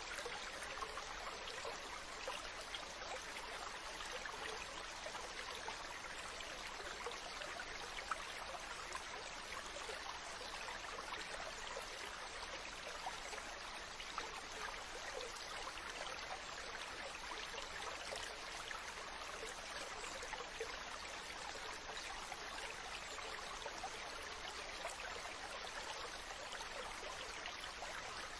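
Water rushing steadily: an even hiss with faint crackles and no clear rise and fall of waves.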